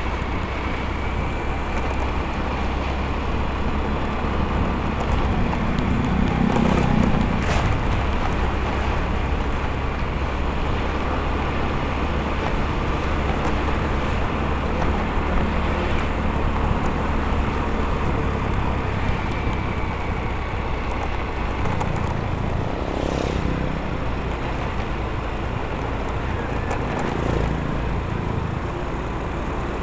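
Motorcycle riding along a road: steady engine and road noise, with a brief louder moment about six seconds in and another about twenty-three seconds in.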